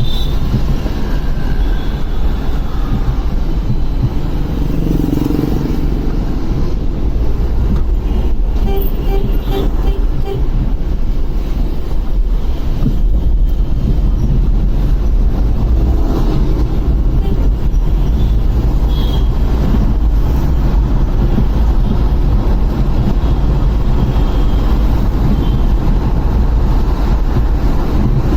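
Motorcycle riding through city traffic: steady wind rumble on the microphone over engine and road noise, with a few short horn toots from traffic around it.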